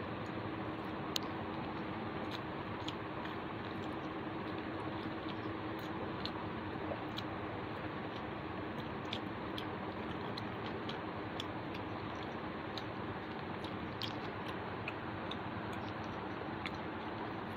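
A person eating rice and chicken by hand: scattered small irregular clicks and smacks of chewing and mouth sounds over a steady background hiss with a low hum.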